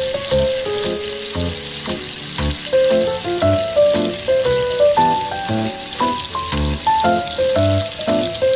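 Chopped garlic sizzling in hot oil in a wok, a steady fine hiss. Instrumental background music plays over it, with a melody of short notes and a bass line.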